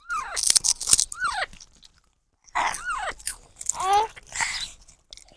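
Baby parrot calling: short squawking chirps whose pitch arches up and then falls, mixed with sharp clicks and scratchy noise, with a pause of about a second in the middle.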